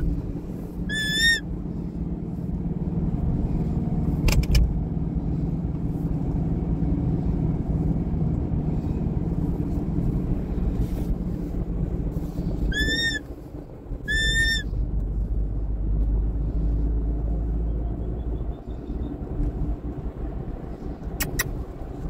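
Steady low rumble under short, clear whistled bird calls: one about a second in and two more in quick succession past the middle. Two sharp clicks also sound, one early and one near the end.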